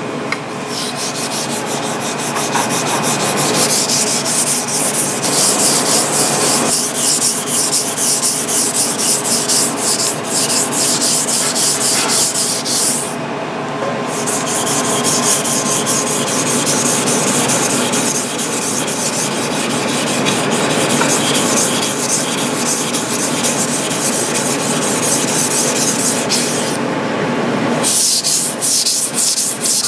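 Kitchen knife blade grinding back and forth on a wet 1000-grit whetstone in rapid, even strokes. The scraping breaks off briefly twice, about 13 and 27 seconds in.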